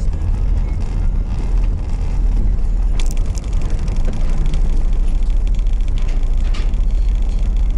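Steady low rumble of a Subaru XV moving slowly, heard from inside the car, with a sharp click about three seconds in.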